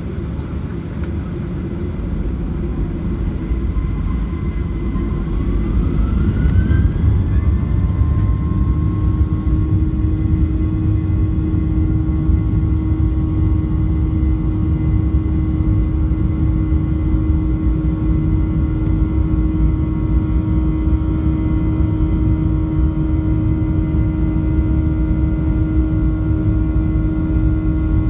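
Boeing 737-800's CFM56-7B engines heard from inside the cabin, spooling up. A whine rises in pitch a few seconds in, then holds steady over a louder rumble as take-off thrust is set.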